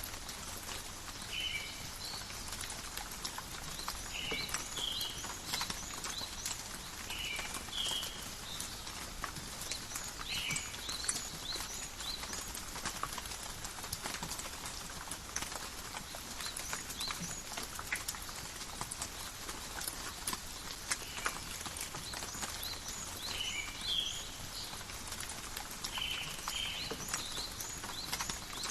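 Steady rain falling in a forest, an even hiss full of sharp drips and drop ticks. Short high chirps recur every second or two throughout.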